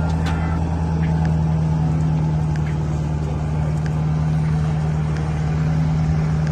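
A motor engine running steadily with a constant low hum.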